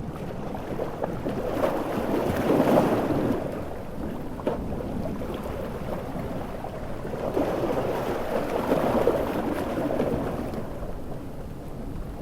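Large ocean waves surging in and breaking twice, about six seconds apart, over a steady wash of heavy rain and wind.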